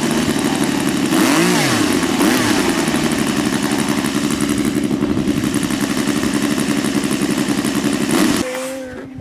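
A motor running steadily at speed, its pitch briefly sweeping up and down about a second and a half in, then cutting off abruptly near the end.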